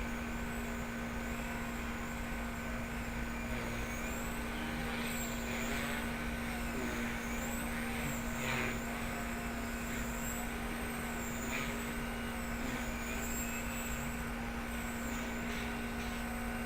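Blade 130X electric RC helicopter in flight: a steady rotor and motor buzz, with a high whine that rises and falls again and again as the pilot works the throttle.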